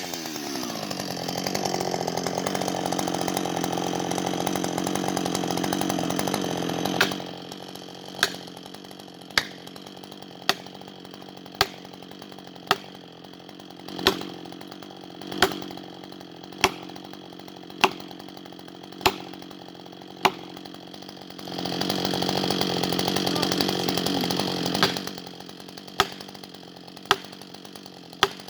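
Husqvarna 560XP two-stroke chainsaw, its revs falling away, running at part throttle for several seconds, then idling, with a sharp knock about once a second over the idle; past the middle it runs up at part throttle again for a few seconds before dropping back to idle and the knocks.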